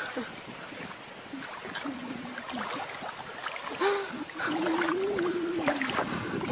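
A voice making a few short wavering calls, then one long held, slightly wavering call about four seconds in.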